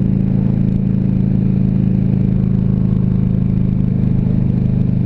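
Harley-Davidson Ultra Classic Electric Glide's V-twin engine running steadily at a constant cruising speed, an even drone with a low rumble beneath it.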